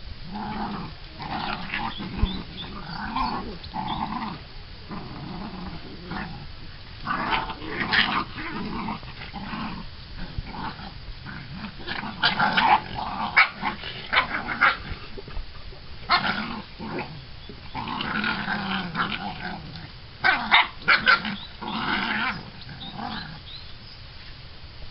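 Half-Labrador puppies growling in repeated short bouts, louder and sharper around the middle and again near the end.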